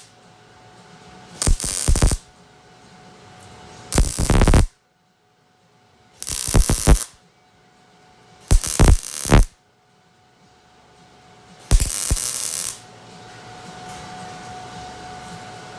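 Sheet-metal panel being tack-welded: five short bursts of welding arc, each under a second and a couple of seconds apart.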